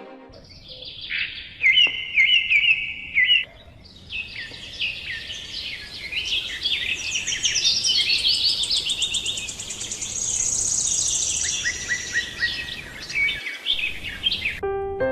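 Several birds singing and calling together, a busy mix of quick repeated chirps and trills, with a high thin trill in the middle, over a faint steady outdoor hiss. Piano music starts just at the end.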